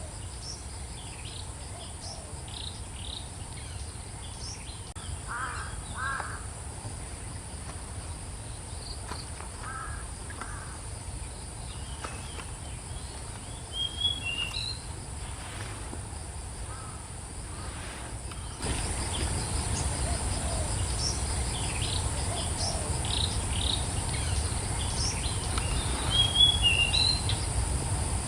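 Wild birds calling: a few harsh calls and short high chirps over a steady high-pitched insect drone and a low rumble. Everything gets suddenly louder about two-thirds of the way through.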